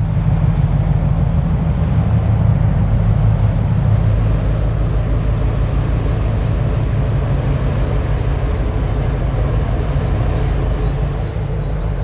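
Steady low drone of ship diesel engines, most likely the tugs towing the hull segment, with a broad noisy wash over it. It eases off slightly near the end.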